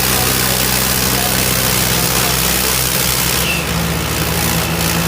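Tractor diesel engine running steadily, its note shifting about three and a half seconds in, over a constant hiss.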